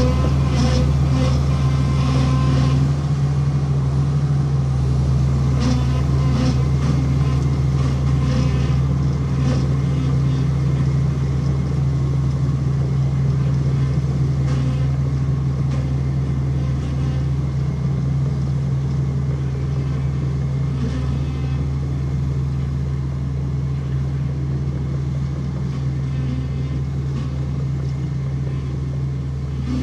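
Heavy earthmoving machine's diesel engine running steadily under a constant low hum, with scattered metallic clanks and rattles, most of them in the first ten seconds.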